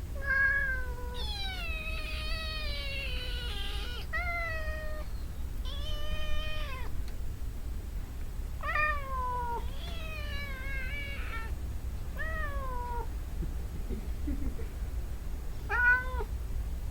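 Cats meowing repeatedly, about eight meows, many falling in pitch; two calls overlap near the start, as if two cats are meowing at once.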